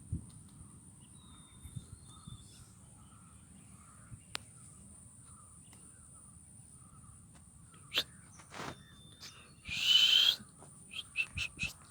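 Faint open-air ambience with a steady high hiss and scattered small ticks. One short, harsh bird call about ten seconds in is the loudest sound.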